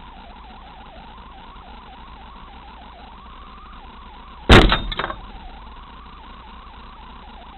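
Car collision: one loud impact about four and a half seconds in, followed by two or three quick smaller knocks, over steady engine and road noise.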